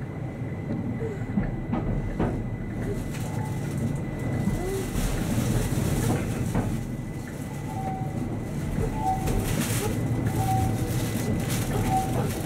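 Keihan 800 series electric train running, heard from the cab: a steady low rumble with occasional sharp knocks from the wheels and track. In the second half there are several short squeaky tones.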